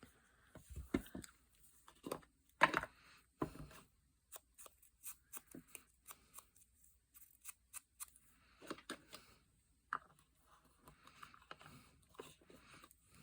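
Paper and card being handled in crafting: rustling and sliding, a few soft knocks in the first few seconds, then a string of short light clicks, then more rustling.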